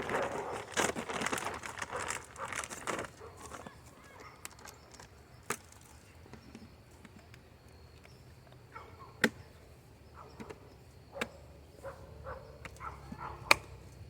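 Dry birdseed and grain pouring out of a bag into a bucket: a rattling rush that tails off about three seconds in. A few sharp clicks and knocks follow.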